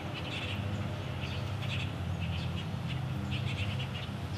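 Small birds chirping in short repeated bursts over a low steady rumble.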